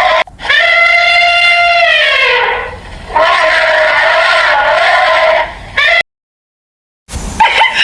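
Three long, drawn-out animal calls with a clear pitch, the middle one sliding down at its end; about six seconds in the sound cuts out completely for a second.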